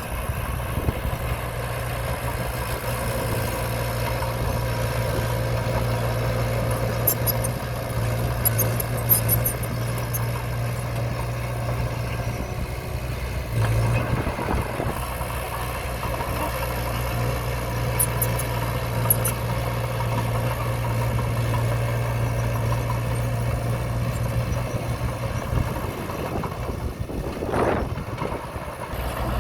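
Diesel engine of earthmoving machinery running steadily at a low, even pitch. Light high metallic clinks come in short clusters about a quarter and two-thirds of the way in, and a brief whine rises and falls near the end.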